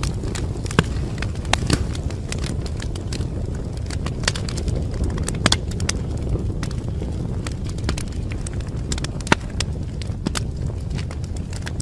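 Wood fire crackling in a fireplace: irregular sharp pops and snaps over a steady low rush of burning, with a few louder pops.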